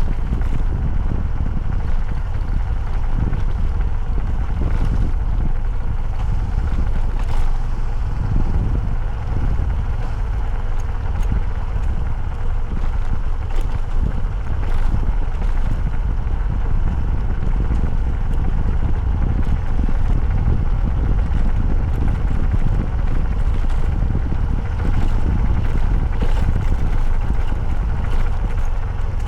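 Motorcycle on the move: a steady, unbroken rumble of engine and wind, heaviest in the low end.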